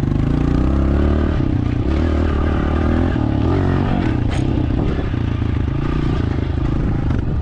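Dirt bike engine running as the bike is ridden, its pitch rising in the first second and then going up and down with the throttle. A sharp click about four seconds in.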